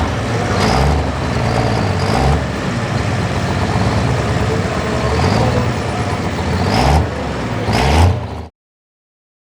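Diesel 4x4 pickup engine running hard under load during a truck pull, revving up in several short surges. The sound cuts off suddenly about eight and a half seconds in.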